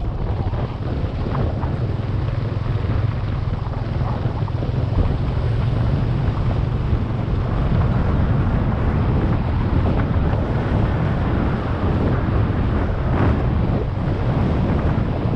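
Wind buffeting the microphone on a moving motorcycle, with a steady low rumble underneath.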